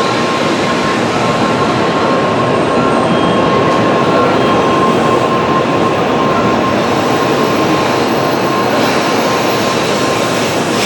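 Tokaido Shinkansen train moving along the platform at Nagoya: a loud, steady rushing noise with a thin, steady whine over it.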